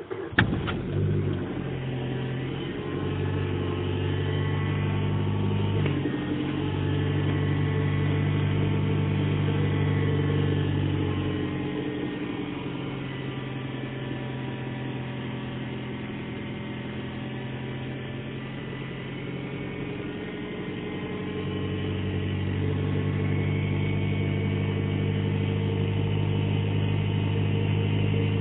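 Suzuki SX4 engine running just after a cold start in frost, with a howling whine over the engine note that swells, fades and swells again. The owner is unsure whether the whine comes from the V-belt or the air-conditioning compressor.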